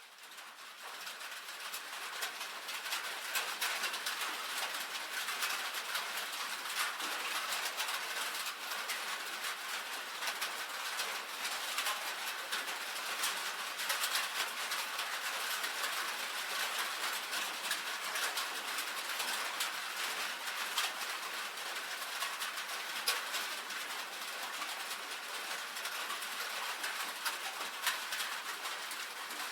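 Rain drumming steadily on a tin roof, a dense patter of many small drop impacts. It fades up from near silence in the first couple of seconds.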